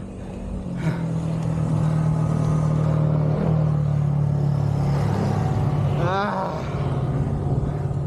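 A motor vehicle's engine running steadily on the road. Its hum swells about a second in and dips slightly in pitch about halfway. A short voice sound cuts in around six seconds in.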